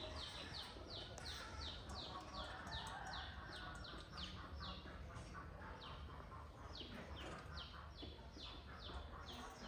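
A small bird chirping over and over, short downward-sliding chirps at about three a second, with a pause around the middle.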